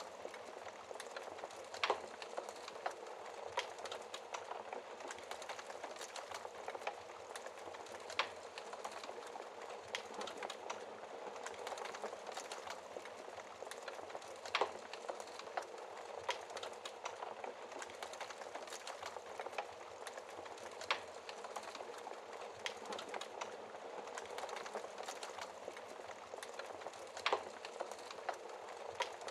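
Wood fire burning in a fireplace: a steady soft rush of flames with constant small crackles, and a sharper pop about every six seconds.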